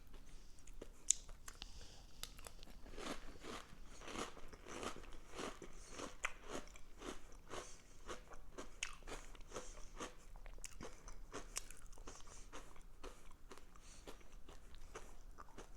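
Mouthfuls of Cinnamon Toast Crunch cereal in orange juice being chewed: a run of crisp crunches, about two a second. One sharper click about a second in.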